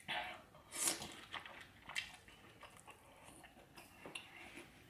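Close-miked eating sounds: soft chewing and wet mouth smacks of seafood in butter sauce, with a few brief louder bites and small clicks.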